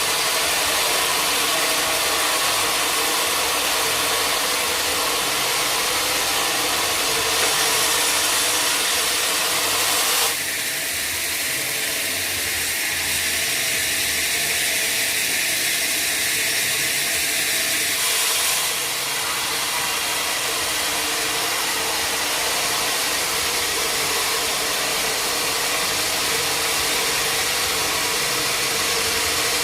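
Sawmill machinery running steadily, with an abrupt change in tone from about ten to eighteen seconds in.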